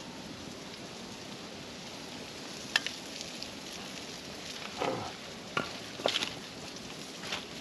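Food frying in hot oil in a skillet over a campfire, a steady sizzling hiss, with several sharp clicks and knocks in the second half.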